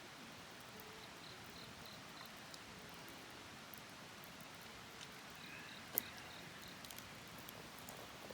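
Faint wood fire with sparse crackles and one sharp pop about six seconds in. A high chirping repeats in short, evenly spaced pulses through parts of it.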